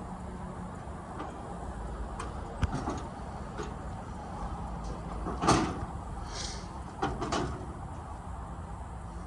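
Occasional knocks and clunks of parts being handled and fitted under a tractor hood, the loudest about five and a half seconds in, with a brief scrape, over a steady low hum.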